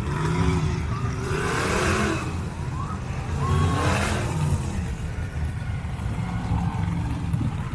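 Monster truck engines running, with two loud revving surges, about two and four seconds in, whose pitch rises and falls.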